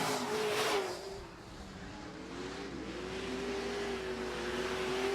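Super truck racing engines running on a dirt oval: a steady engine note with a truck passing close by about half a second in, then the sound of the field carrying on.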